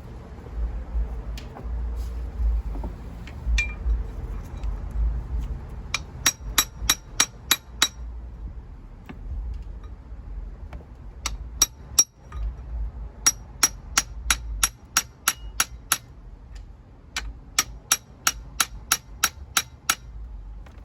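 Metal hand tools working on a car engine: several runs of sharp metallic clicks, about five a second, with a faint ring, over a low rumble.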